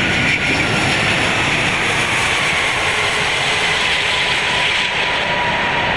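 Steady rushing noise of airflow and engines in an Airbus A380's cockpit around touchdown, just after the thrust levers are pulled to idle. A faint steady tone sits under the rush and fades out near the end.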